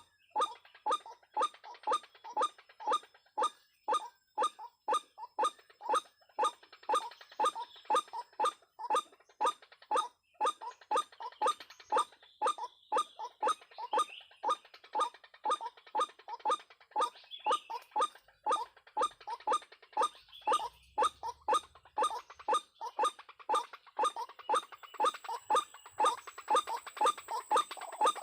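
White-breasted waterhen (ruak-ruak) giving its monotonous call: one short croaking note repeated evenly, about two to three a second, without a break.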